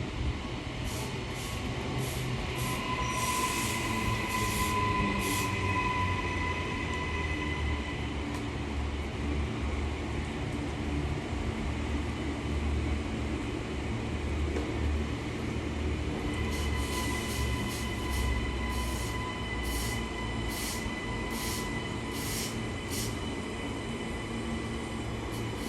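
Suburban electric train running, heard from inside the carriage: a steady rumble with a thin wheel squeal that comes in twice, plus scattered clicks from the wheels and track.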